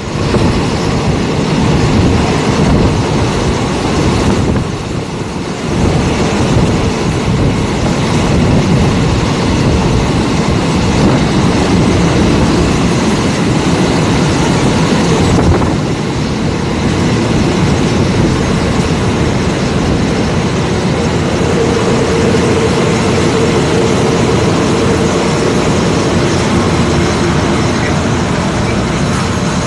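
Passenger train running on the rails: a loud, steady rumble of wheels and carriage, easing briefly about five seconds in. A steady hum joins it in the last third.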